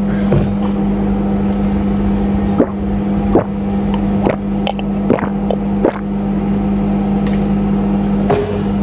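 Microwave oven running with a steady hum, with several sharp knocks and clicks from kitchen handling over it.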